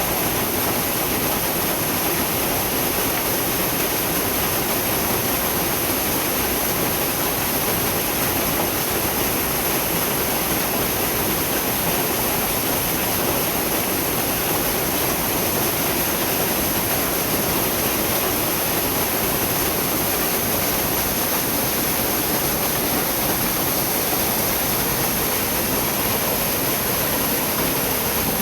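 Rushing water of a mountain gorge stream, a loud, steady, unbroken roar of water over rocks.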